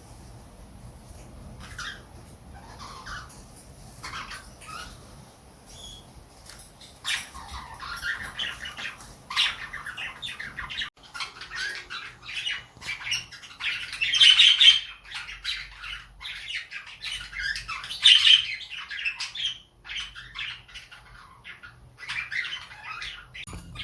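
Small pet parrots chirping and squawking in quick runs of short calls, sparse at first and busier from about seven seconds in, with the loudest squawks about halfway through and again a few seconds later.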